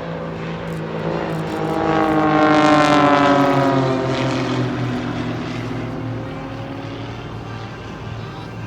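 Formation of Extra 300 aerobatic display aircraft making a low flypast. The propeller engine note builds, is loudest about three seconds in, then drops steadily in pitch as the aircraft pass and fade away.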